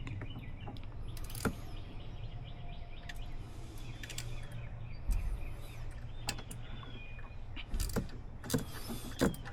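Scattered single clicks and taps of a hand ratchet and metal tools, from snugging a bolt down on an engine, over a steady low background hum. Faint bird chirps are heard now and then.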